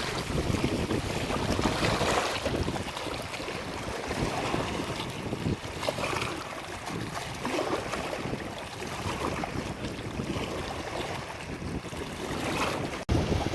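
Sea waves surging and breaking, with wind buffeting the microphone in a low rumble; the wash swells and eases every second or two.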